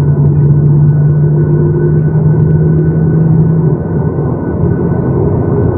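Boeing 737-800's CFM56-7B jet engines and airframe heard from inside the passenger cabin: a loud, steady rumble with a low hum that fades about two-thirds of the way through.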